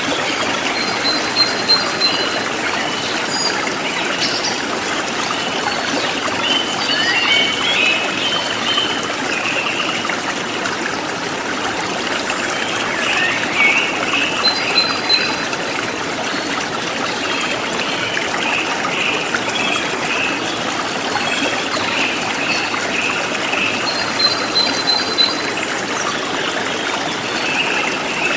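Forest stream flowing steadily, with small birds chirping and singing over the water. A short, high call repeats three times, about ten seconds apart.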